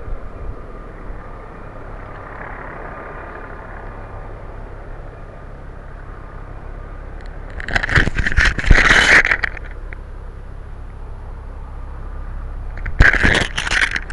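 Distant helicopter giving a steady drone. Two loud scraping bursts of handling noise on the microphone cut across it, one around eight seconds in and a shorter one near the end.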